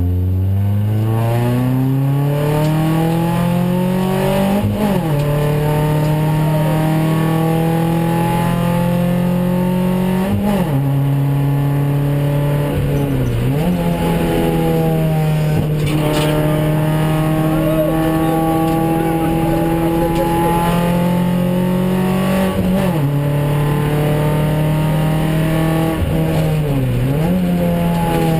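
Renault Clio 16S's 16-valve four-cylinder engine heard from inside the cabin, revving up hard over the first few seconds, then held at a fairly steady pitch under load, broken by six short dips in revs that pick straight back up, typical of gear changes and lifts on a lap of the circuit.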